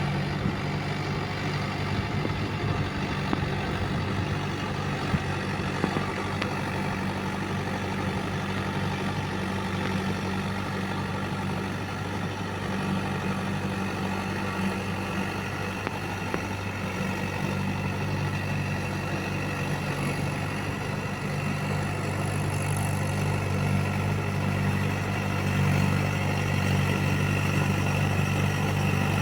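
Mahindra tractor's diesel engine running steadily while pulling a rotavator, a low, even drone that gets a little louder near the end, with a few sharp clicks in the first few seconds.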